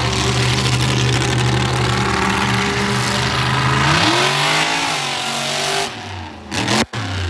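Monster truck engine running at a steady high note, then revving up about four seconds in before falling away; the sound cuts out abruptly for a moment near the end.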